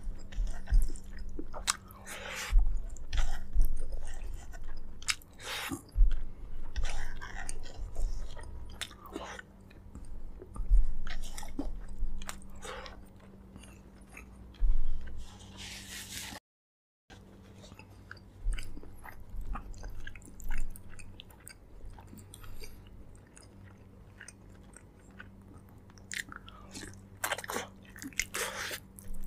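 A person chewing and biting braised pork leg close to the microphone: irregular wet chewing and smacking sounds. The sound cuts out completely for about half a second a little past the middle.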